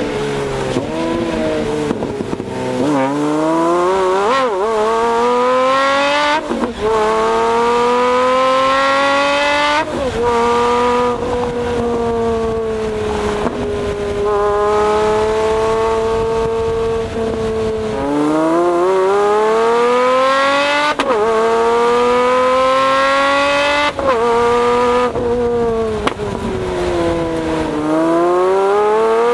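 Pagani Zonda's AMG V12 exhaust, recorded close to the tailpipes, accelerating hard. The pitch climbs through the gears and drops sharply at each upshift, with a sharp crack at several of the shifts. There is a steadier, level stretch in the middle before it pulls up through the revs again.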